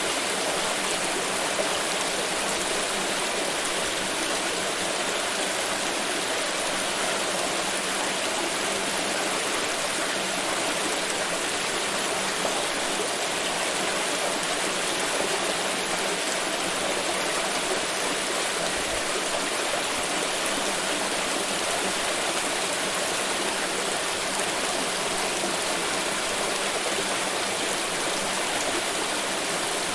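Water pouring steadily in a continuous splashing rush, with no change in level.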